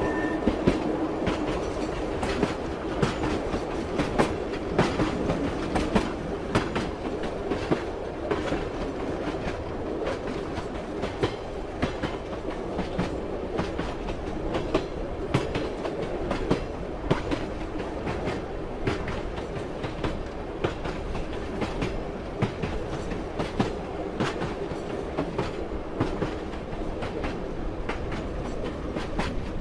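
Train running along the track, its wheels clattering over rail joints with a steady rumble and many sharp clicks throughout.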